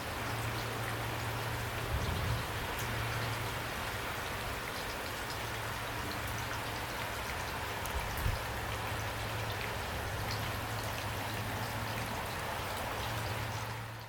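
Heavy rain falling steadily, a dense even hiss of drops, with a low steady hum beneath it. Brief louder moments come about two seconds and eight seconds in.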